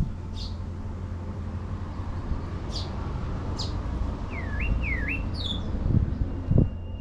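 Small birds calling: several short, high, falling chirps and two quick V-shaped notes, over a steady low rumble. Two low thumps come near the end.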